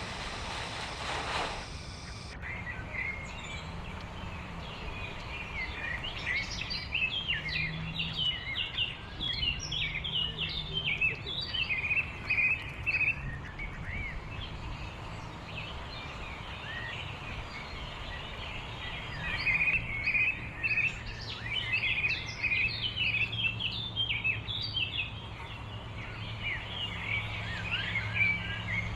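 Many small birds chirping in a busy, continuous chorus of short high calls, over a steady low hum. A rushing, wind-like noise cuts off suddenly about two seconds in.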